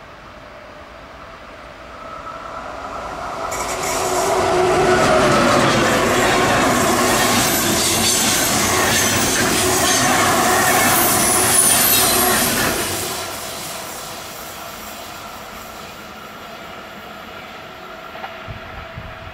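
An electric-locomotive-hauled train passing at speed: it builds up from about 2 s in, is loudest from about 4 to 13 s, with wheel and rail noise and a tone that drops in pitch as it goes by, then fades away.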